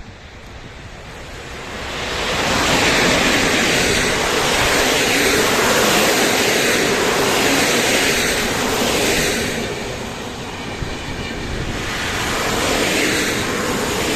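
A train passing close by, its wheels rumbling on the rails. The noise builds over the first two seconds, then stays loud, swelling and easing in waves as the cars go past.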